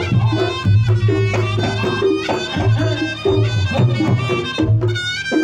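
Reog Ponorogo gamelan music: a slompret (Javanese shawm) playing a wavering high melody over kendang drums beating a steady, driving rhythm.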